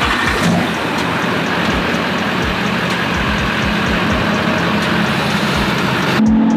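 A motor vehicle's engine running steadily under a loud rushing hiss. Near the end the sound changes abruptly: the hiss falls away and a steadier, stronger engine hum takes over.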